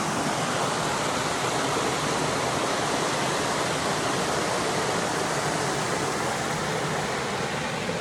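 Large mountain brook rushing over rocks, a steady even rush of water.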